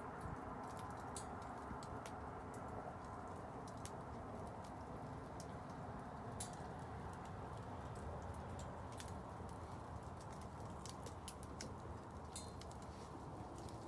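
Wood bonfire burning, crackling with irregular sharp pops and snaps over a steady low rush of the flames.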